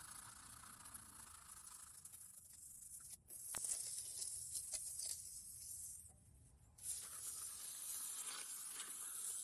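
Faint gritty scraping and hissing of wet concrete mix being worked and pressed into molds, in short stretches broken by brief silences.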